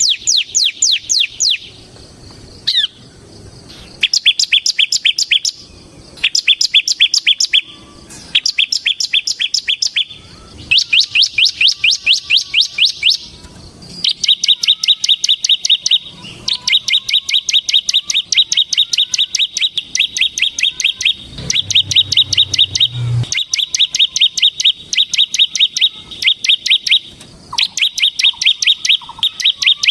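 Bar-winged prinia (ciblek) singing its rapid chattering song: fast runs of repeated high notes, about ten a second. For the first half the runs come in bursts of one to two seconds; from about halfway they become long, nearly unbroken trills.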